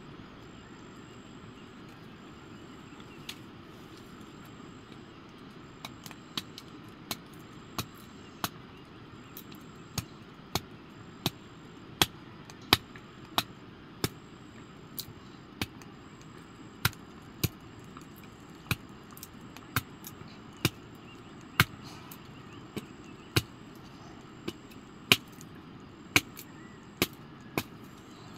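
A knife chopping on a cutting board: sharp single strokes that start about six seconds in and go on at a little over one a second, not quite evenly.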